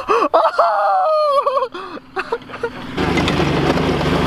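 A loud, wavering call that falls in pitch, then about three seconds in a small engine starts running steadily.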